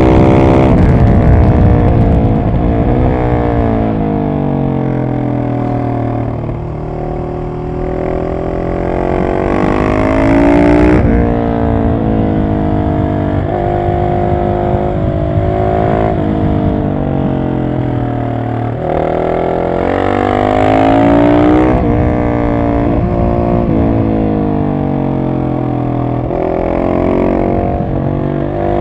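Husqvarna 701 SM's single-cylinder engine through a decatted Arrow exhaust, riding with the revs rising and falling again and again as it accelerates, shifts and slows. It is loudest on the pulls about ten and twenty seconds in.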